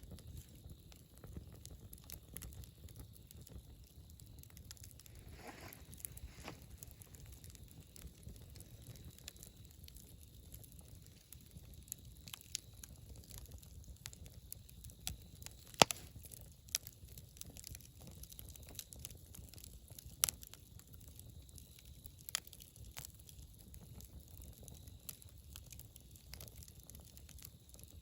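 Wood campfire burning: a low steady rumble with scattered sharp crackles and pops, the loudest about 16 and 20 seconds in.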